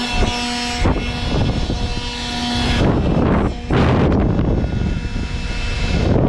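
Strong artificial wind buffeting the microphone in rumbling gusts, with a steady motor hum from the blower making it that drops out about three seconds in.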